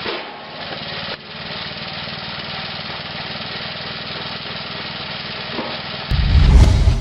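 A machine's engine running steadily, with a brief dip about a second in, then a loud, low, heavy rumble about six seconds in.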